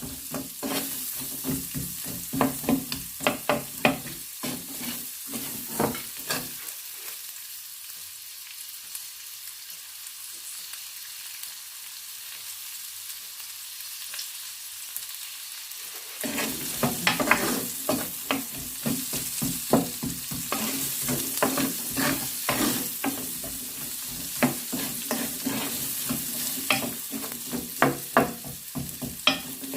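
Chopped onions sizzling in hot oil over high heat as they are stir-fried, with a spatula scraping and knocking against the pan. The stirring stops for about ten seconds in the middle, leaving only the sizzle, then starts again.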